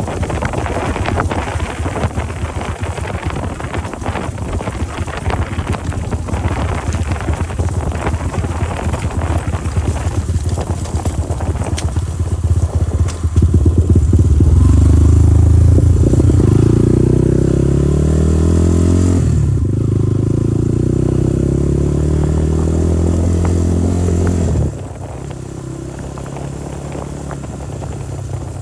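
Motorcycle engine running while riding, at first under a rough rattling noise. About halfway through the engine note gets much louder, its pitch rising and falling with the throttle. It drops back abruptly near the end.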